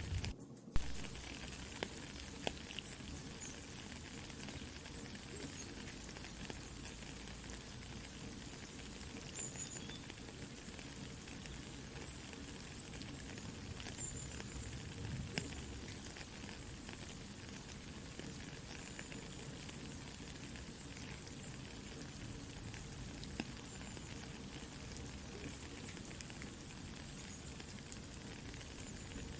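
Soft, steady rain falling while a campfire crackles, with sharp pops scattered throughout. Just after the start the sound cuts out for about half a second, then one loud pop.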